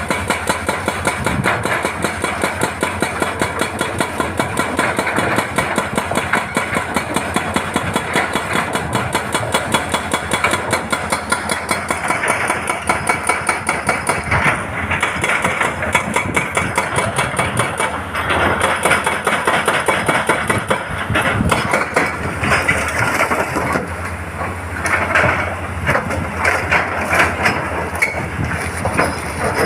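Hydraulic rock breaker on a Hitachi excavator hammering stone in a fast, even run of blows, several a second, with the excavator's diesel engine running under it. In the second half the blows turn rougher and less regular.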